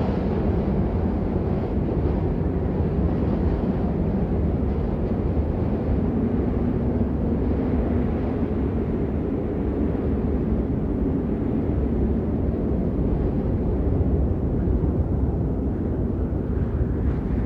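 Steady, unbroken rain noise, a deep, muffled rushing with little high hiss.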